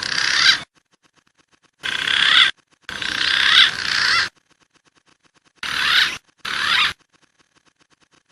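Wild pigeon calls played as a bird-lure track: a series of short, harsh, rasping calls, each under a second, in clusters with short pauses between them and faint regular ticking in the gaps.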